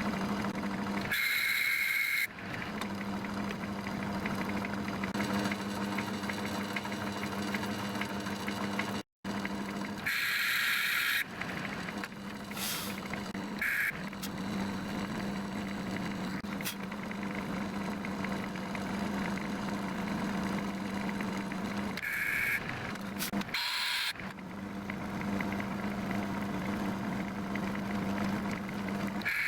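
A small metalworking lathe running with a steady motor hum while machining a piece of bronze, with several short high-pitched squeals over it. The sound drops out for a moment about nine seconds in.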